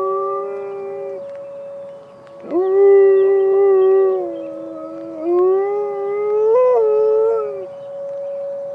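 Malamute–Great Dane mix dog howling: a howl that trails off about a second in, then two more long howls, the first opening with a sharp upward swoop. Under them runs the steady, unchanging tone of an emergency siren.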